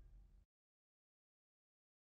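Near silence: the last faint low rumble of a helicopter flyby dies away in the first half second, then cuts to complete digital silence.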